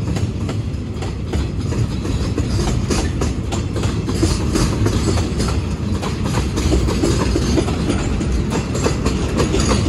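A train running along the track with a steady rumble, its wheels clacking quickly and repeatedly over the rail joints.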